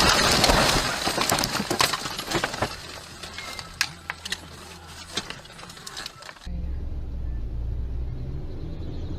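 Aftermath of a car crash: broken glass and debris tinkling and clattering, loud at first and dying away over a few seconds, with scattered clinks after. About six and a half seconds in, this cuts suddenly to the steady low rumble of a car driving, heard from inside the cabin.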